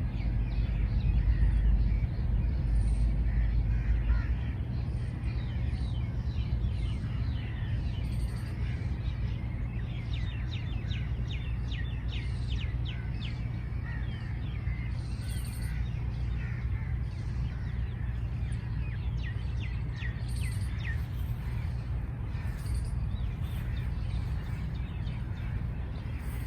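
Small birds chirping and twittering in quick series of short high notes, over a steady low rumble that is heaviest in the first few seconds.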